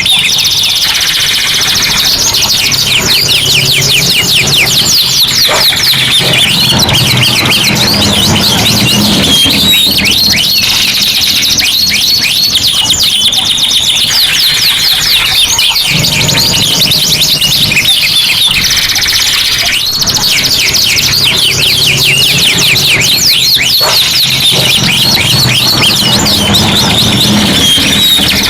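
Several domestic canaries singing at once, a dense, continuous stream of rapid rolling trills and high chirps, with a low hum underneath in stretches.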